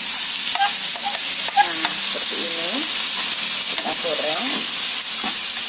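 Chopped onion, shallots, garlic and lemongrass sizzling in hot oil in a non-stick wok, with a steady hiss. A metal spatula stirs them and clicks and scrapes against the pan now and then.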